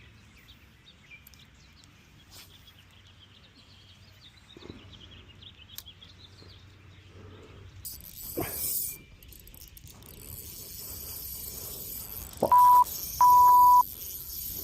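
Two short, loud electronic bleeps at one steady mid pitch near the end, the kind of tone edited in to censor a word. Before them, faint outdoor background with a brief knock about eight seconds in.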